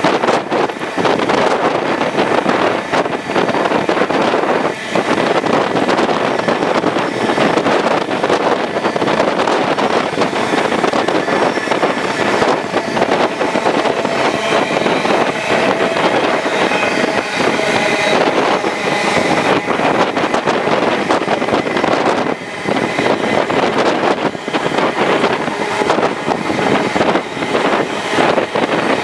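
Wind rushing past the microphone at an open window of a moving steam-hauled passenger train, over the steady running noise of the carriages on the rails. The sound stays loud and even throughout.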